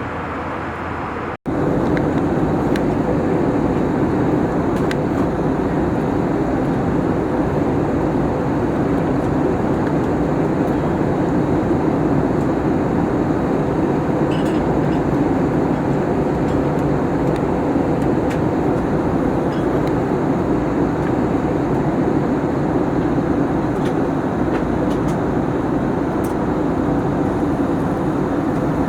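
Steady in-flight cabin noise of an Airbus A321: an even roar of airflow and engines with a low hum underneath. It cuts out briefly about a second and a half in, then resumes slightly louder.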